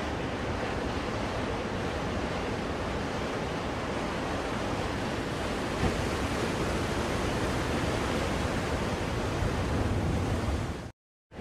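Ocean waves washing on a shore, a steady surf noise played as white noise for soothing a baby. It cuts out completely for a moment near the end, then carries on.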